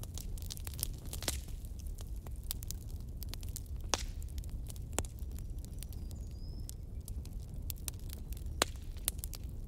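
Wood fire crackling: irregular sharp pops and snaps over a low steady rumble, with a few louder pops and a brief high whistle about six seconds in.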